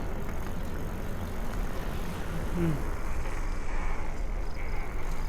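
Steady low rumble of a bicycle ride recorded on the move, with wind buffeting the microphone. A short vocal sound comes about two and a half seconds in.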